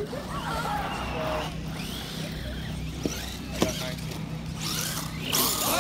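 Electric radio-controlled cars racing on a dirt track, their motors whining up and down in pitch as they pass. A few sharp clicks, with voices talking in the background.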